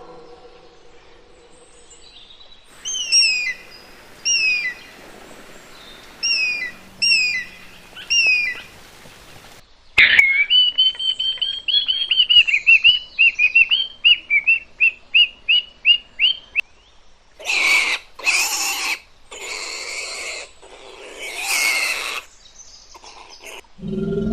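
Bird calls: a short call falling in pitch, repeated about six times. Then a fast run of chirps, and several harsh screeches near the end.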